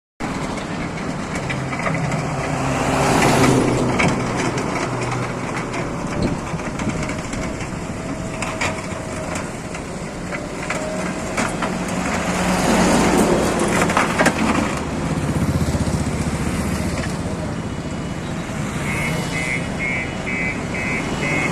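Heavy construction machinery running with a steady low engine hum, overlaid by irregular clicks and knocks. Near the end a run of short, evenly spaced high beeps sounds.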